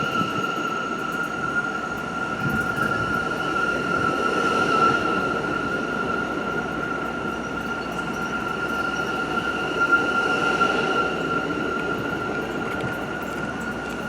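New York City subway train running slowly with a steady, high-pitched wheel squeal over the rumble of the cars.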